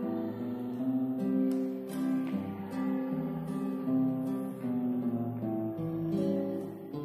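Music: cello with electronic effects, a slow run of overlapping pitched notes that ring on into one another.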